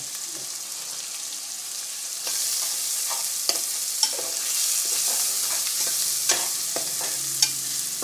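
Tomato-and-spice masala sizzling in hot mustard oil in a metal pot, stirred with a metal ladle that clinks against the pot four times. The sizzle gets louder about two seconds in.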